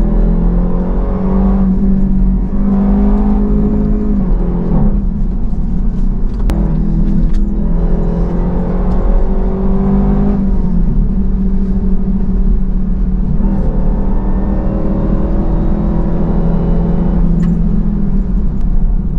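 Dodge Durango SRT Hellcat's supercharged 6.2-litre Hemi V8 under hard acceleration. Its pitch climbs and then drops several times as the transmission shifts up.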